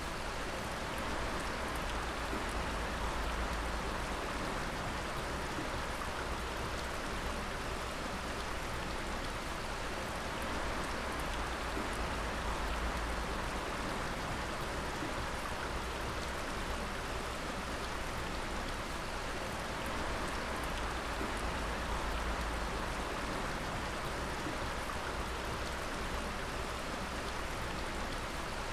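Water dripping and splattering steadily, many drops falling at once like rain on a surface, with a steady hiss of running water beneath.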